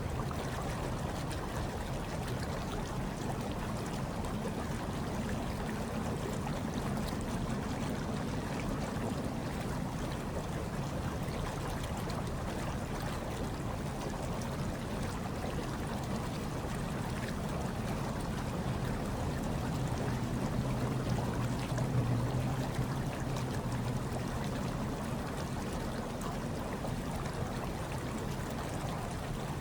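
Hot tub water running steadily, with a low rumble underneath that swells slightly about twenty seconds in.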